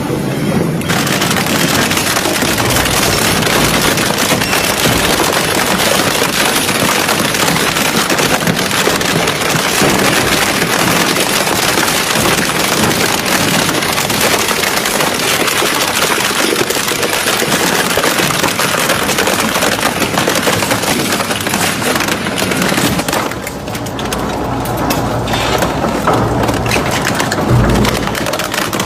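A shredding or crushing machine grinding up material, a loud, dense, continuous crunching and splintering noise that eases slightly near the end.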